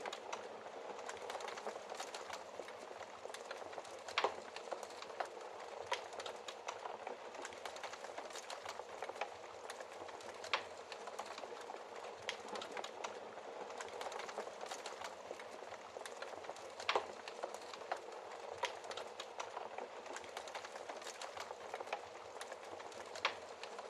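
Wood fire crackling in a fireplace: a steady hiss with irregular sharp pops and snaps, a few of them louder than the rest.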